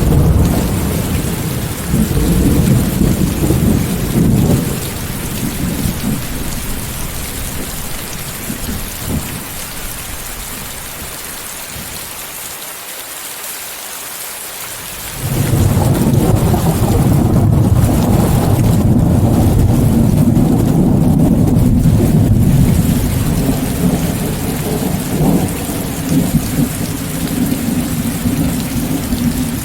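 Steady heavy rain with rolling thunder, mixed with white noise. A deep thunder rumble at the start dies away after about five seconds, and a second long, loud roll breaks in suddenly about halfway through, then slowly eases under the constant rain hiss.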